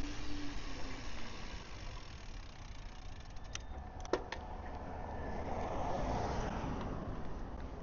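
A car passing, its noise swelling and then fading in the second half, over a steady low rumble. A few sharp clicks come a little before the middle.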